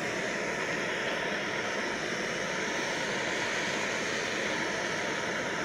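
Small gas canister camp stove burner running with a steady hiss.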